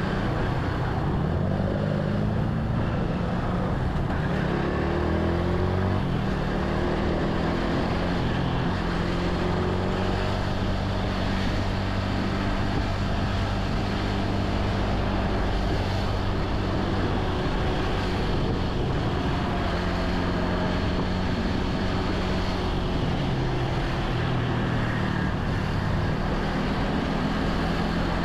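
Motorcycle engine running under way, its pitch rising and falling as it speeds up and slows, with steady wind noise on the microphone.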